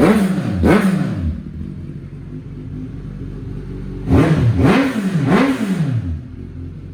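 Suzuki GSX-S1000S Katana's inline-four engine, running through a full Yoshimura R11 exhaust, is blipped twice at the start and settles to idle. It is then revved three times in quick succession a little past the middle.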